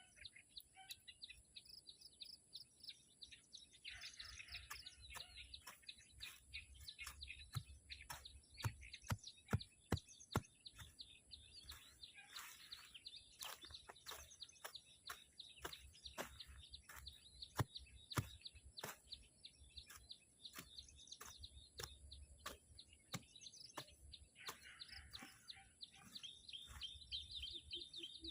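Small birds chirping and twittering, in bouts about 4 seconds in, around 12 seconds and near the end. Many sharp clicks and a steady high whine run underneath.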